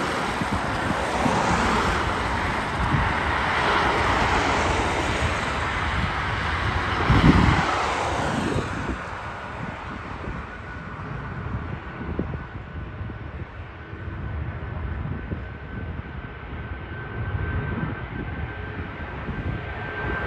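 Jet airliner engines, a broad rushing roar that is loudest for the first half and fades away by about nine seconds in. A faint steady whine then grows toward the end as the next jet approaches.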